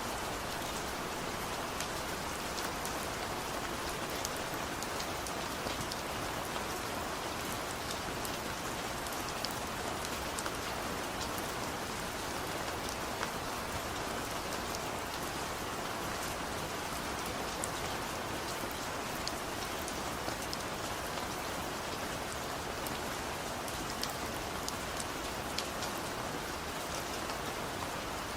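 Steady rainfall, a constant hiss with many fine drop ticks pattering on a surface.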